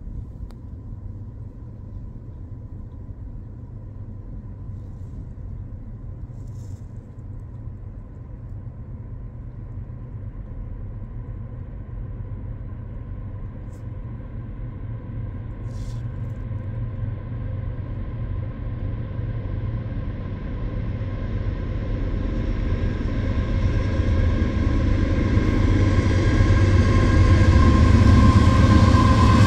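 Approaching freight train's diesel locomotives: a low rumble that grows steadily louder throughout, with a thin steady whine above it that gets stronger near the end.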